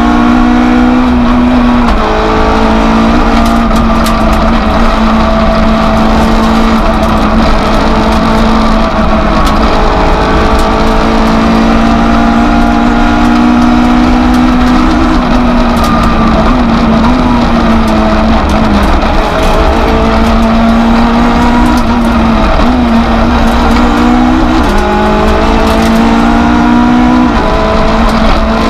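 Citroën Saxo F2000/13 rally car's engine running hard at high revs, heard from inside the cabin. The pitch climbs and then steps down several times as gears are changed.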